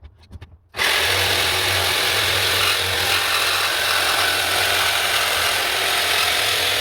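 Electric jigsaw cutting wood, starting up abruptly under a second in and running steadily with a rattling motor hum.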